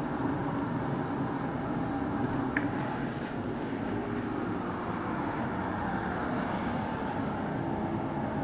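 Steady mechanical drone with a low hum, running evenly throughout, with one faint click a little over two and a half seconds in.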